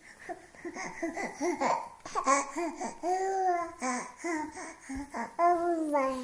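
A baby laughing and babbling in short, high-pitched bursts, with two longer drawn-out calls, the last one falling in pitch.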